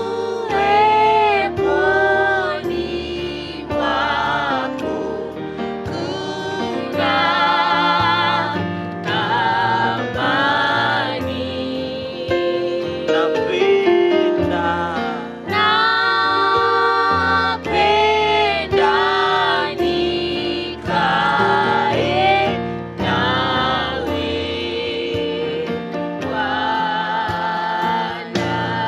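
Gospel song with voices singing over instrumental backing.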